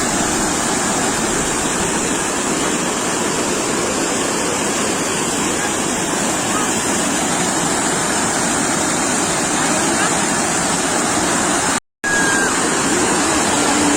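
Sea waves washing onto the shore: a steady, continuous rush of surf that drops out for an instant near the end.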